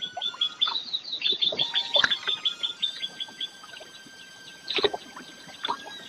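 Songbird chirping outdoors: a fast run of short high chirps, about seven a second, that breaks off about halfway through into scattered chirps. A few short sharp knocks come in between.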